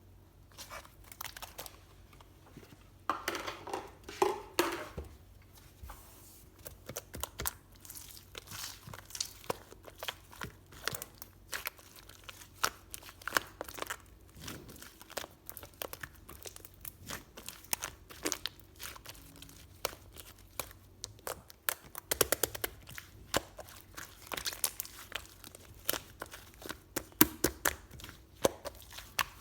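Irregular crinkling and crackling of something being handled and torn, many small crackles with louder rustling stretches a few seconds in and again near the three-quarter mark.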